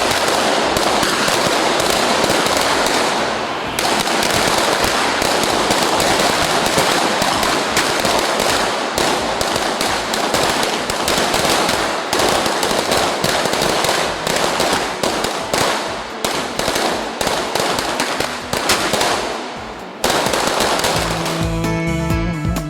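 A long string of firecrackers crackling in a rapid, dense run that thins out and stops about twenty seconds in, when music with singing comes back.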